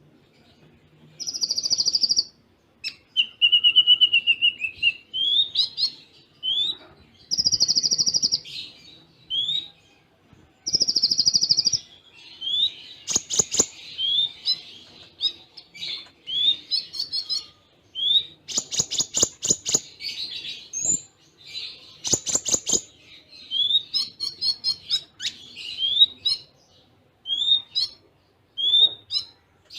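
Kolibri ninja (konin) sunbird song with cililin-style fill-ins: rapid high buzzy trills of about a second each, between them quick runs of short rising chirps, and several dry rattling bursts further on.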